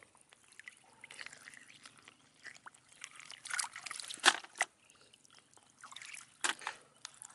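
Water trickling and sloshing, with irregular small splashes. The loudest splash comes a little past four seconds in, and another comes about six and a half seconds in.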